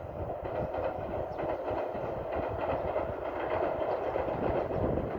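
The Sonic limited express electric train running past at speed, its wheels clacking over the rail joints, the sound growing louder.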